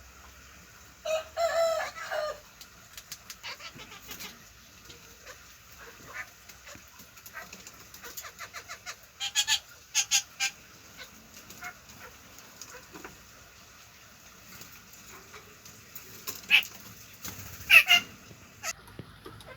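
Parrots calling: a loud, wavering call about a second in, a cluster of sharp squawks around halfway, and more loud calls near the end, with softer chatter between.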